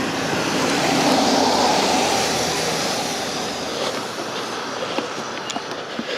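A vehicle passing close by: a broad rush of noise that swells over the first second or two and fades away by about four seconds in.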